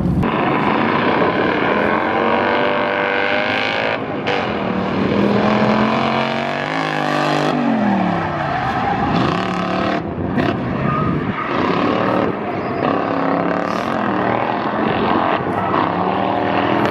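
Lexus LS400's 1UZ V8 drift car being driven hard, its engine note climbing and falling repeatedly with brief drops between pulls, along with tire squeal and skidding.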